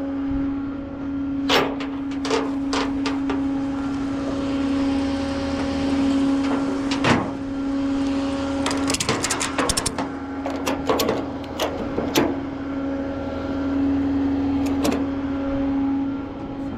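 A vehicle or machine running with a steady hum at one pitch, with a series of sharp metallic clicks and clanks over it. A quick run of clanks comes around the middle.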